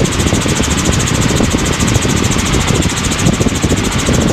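Helicopter in flight, heard from inside: steady engine and rotor noise with a fast, even pulsing beat.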